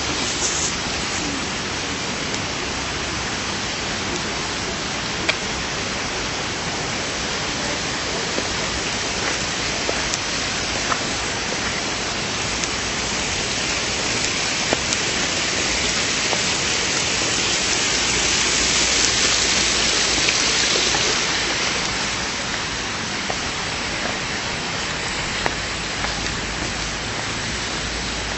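Steady rush of running water in a gorge stream, swelling slightly about two-thirds of the way through, with a few faint clicks.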